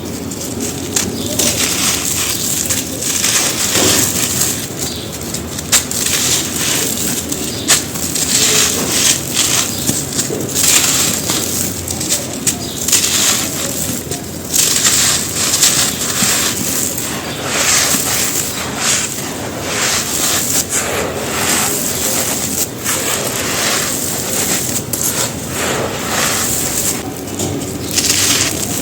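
Dry, gritty red dirt clumps crumbling and crushing on a floor: a dense, continuous run of crunching and crackling, described as super crunchy.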